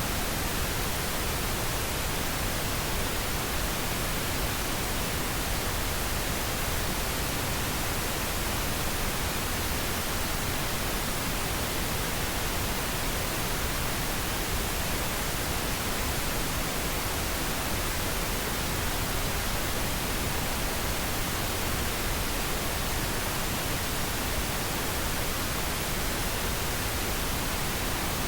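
Steady white noise: an even, unchanging hiss across the whole range.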